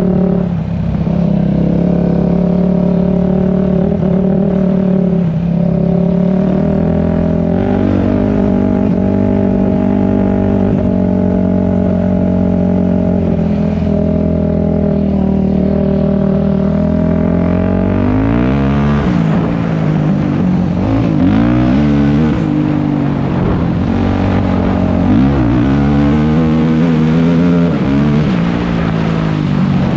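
Dirt bike engine running at a steady throttle, then from about two-thirds of the way in, its pitch repeatedly rises and falls as the throttle is opened and closed.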